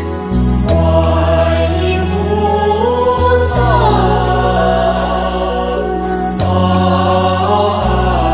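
Buddhist devotional song in praise of Guanyin: sung voices carry a gliding melody over held bass notes that change a few times, with a steady beat of light percussion about twice a second.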